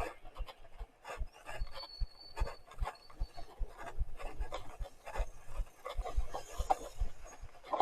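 Mountain bike ridden through mud: rhythmic scraping and rubbing with dull knocks, about two to three a second, and a brief thin high squeal about two seconds in.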